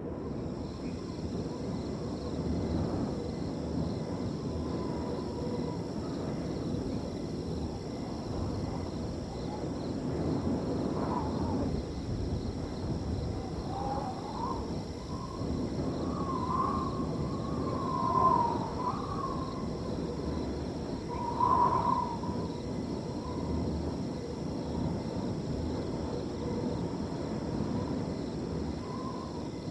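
Wind blowing steadily through a field, with crickets trilling in a constant high chorus. Through the middle a few wavering animal calls rise and fall, two of them louder.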